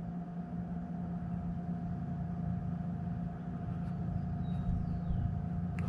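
A steady low mechanical hum over a low rumble, with a faint, short, high falling sound about four seconds in.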